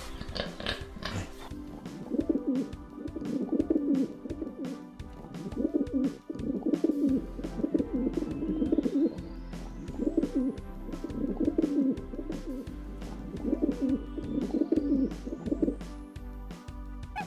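Dove cooing in repeated low phrases, about one every one to two seconds, over background music.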